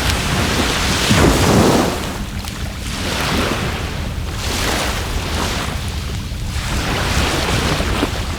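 Sea waves washing onto the shore in repeated surges every couple of seconds, the biggest about a second in, with wind rumbling on the microphone underneath.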